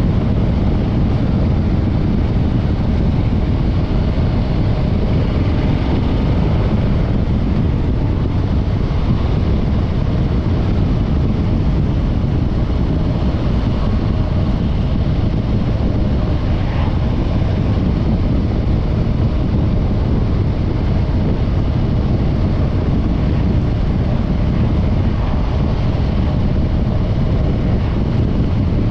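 Harley-Davidson Breakout 114's stock-exhaust Milwaukee-Eight 114 V-twin running steadily while riding, with wind on the microphone.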